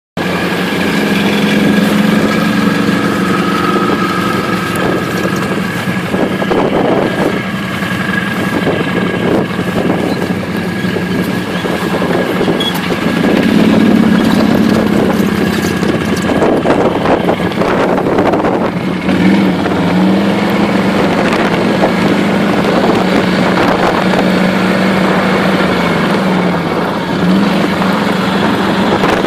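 A track-equipped ATV's V-twin engine running steadily under load through snow, with wind on the microphone. The engine speed drops and picks up again a few times in the second half.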